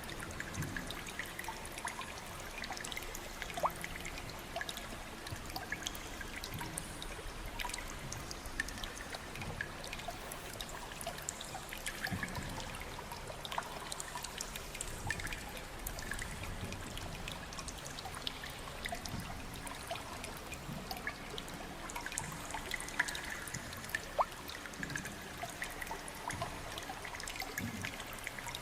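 Water trickling steadily, with many small drips and splashes scattered through it.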